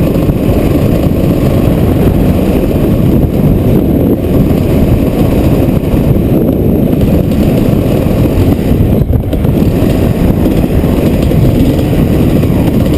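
Heavy wind buffeting on the microphone in a dust storm, a loud steady low rumble, with a motorbike running underneath it.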